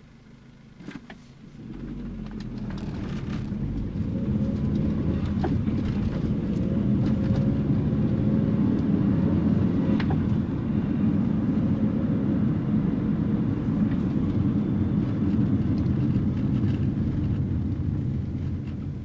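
A 1984 Nissan N12's 1.5-litre E15S four-cylinder engine and the car getting under way: after a click about a second in, engine and road noise build over a couple of seconds into a loud, steady low drone while driving, easing off slightly near the end.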